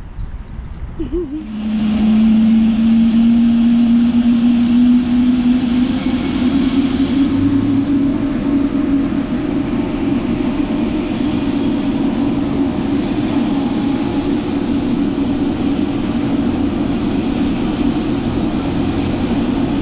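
Helicopter's turbine engine and rotor running: a loud, steady drone that comes in suddenly about a second and a half in. Its main tone rises slightly in pitch over the next few seconds, then holds.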